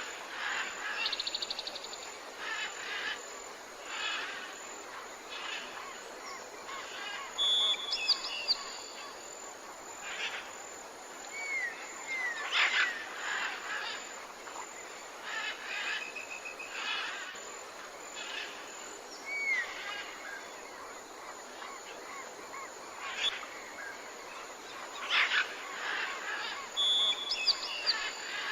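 Several wild birds calling and singing at once: a dawn-chorus mix of short chirps, trills and curving whistled notes, some phrases repeated, over a light outdoor background hiss.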